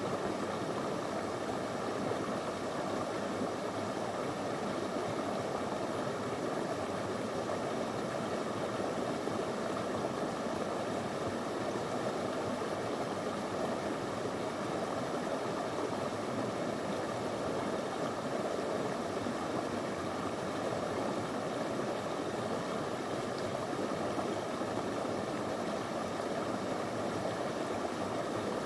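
Small shallow river flowing over stones, a steady, unbroken rushing of water.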